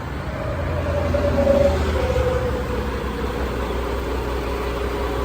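Diesel semi truck idling with a steady low rumble. A droning tone swells to a peak about a second and a half in, then fades. It is an unexplained noise the driver says the truck has been making constantly since the day before.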